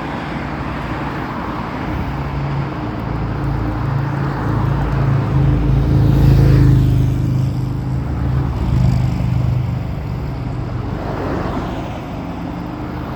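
Road traffic: a motor vehicle's engine and tyres passing by, growing louder to a peak about six to seven seconds in and then fading, with a second smaller swell soon after.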